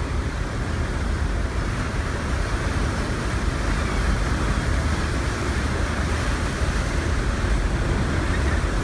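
Steady deep rumble of the SS Badger's coal-fired steam engines running full astern, mixed with the churning of the ship's wake.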